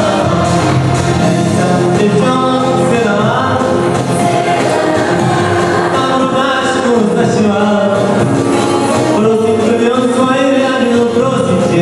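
Vocal music: singing voices, apparently several together, over an instrumental accompaniment.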